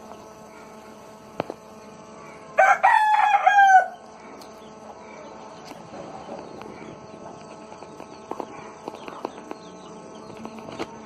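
A rooster crows once, a single call of about a second and a half a few seconds in, over a faint farmyard background with a few light ticks.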